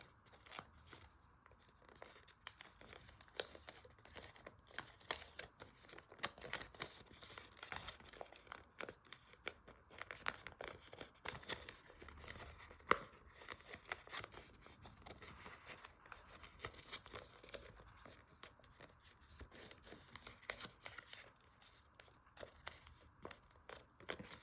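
Sheet of origami paper being folded and creased by hand: irregular crisp rustles, crinkles and small clicks as the paper is bent and pressed flat, with one sharper crack about thirteen seconds in.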